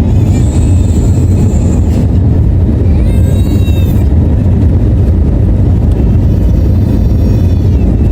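Airbus A321 cabin noise heard from a passenger seat: a loud, steady low rumble of engines and airflow during the descent. Faint higher pitched sounds come and go over it.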